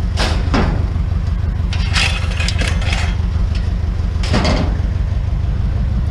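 Truck engine running at a steady idle, a deep constant rumble, with a few brief clatters about a second apart near the start, middle and two-thirds of the way in.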